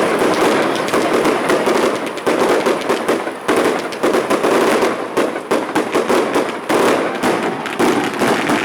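Large festival bonfire burning fiercely, with dense, continuous crackling and popping.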